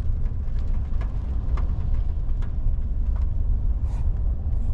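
Steady low road rumble of a car driving, heard from inside the cabin, with a few faint scattered clicks.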